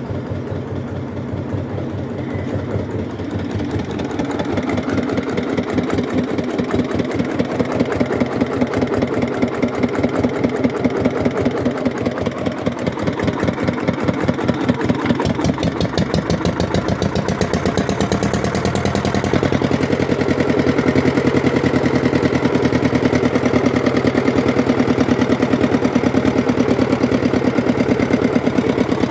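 Hatz diesel engine running with a steady, rapid chugging beat; it gets louder about two-thirds of the way through.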